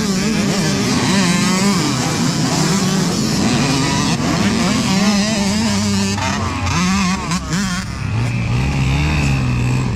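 A pack of youth dirt bikes accelerating hard off the start line, many engines revving at once with their pitches wavering up and down as riders shift. About eight seconds in, the sound thins to a few lower engine notes.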